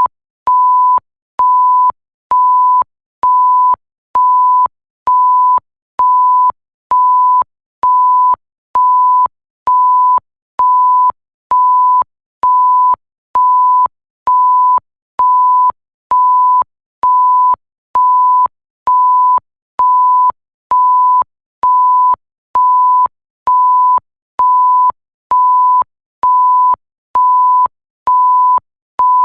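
Electronic 1 kHz sine-wave bleep tone pulsing on and off in an even rhythm, a little more than once a second, each beep about half a second long with a short gap, and faint clicks at each start and stop.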